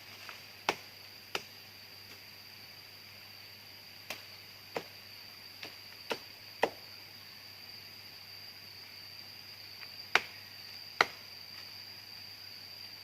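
Eight sharp chopping strikes, mostly in pairs a second or less apart, as of a blade hitting wood. Under them runs a steady high-pitched insect drone.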